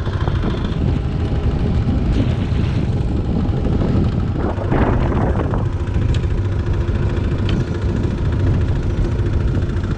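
Small fishing boat's engine running steadily, with two brief rushes of noise over it, about two and five seconds in.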